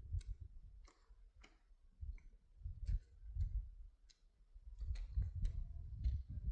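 Scattered light clicks and knocks at an uneven pace, over a low, uneven rumble that fades in the middle and comes back near the end.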